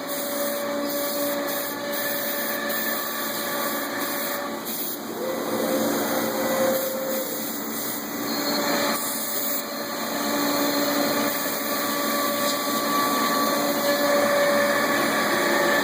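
CNC router spindle running and cutting, a steady machine noise with whining tones that shift pitch a few times as the cut changes.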